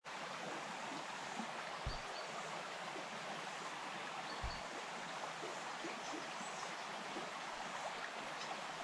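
Flowing stream water: a steady, even rush. Two brief low thumps, about two seconds in and again about four and a half seconds in.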